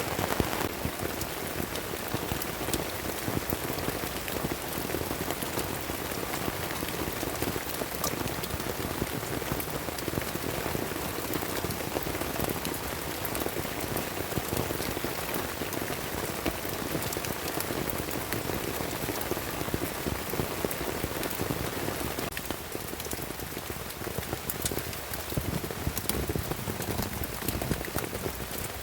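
Steady rain falling, with many individual drops ticking through the even hiss.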